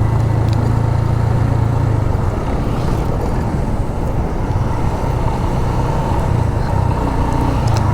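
Motorcycle on the move, a steady low engine drone under a dense rush of wind and road noise.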